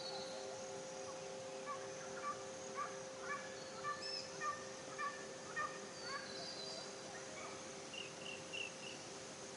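Birds chirping: a run of short quick notes for several seconds, a few higher thin whistles, and three quick notes near the end. A faint steady ringing tone sits beneath them.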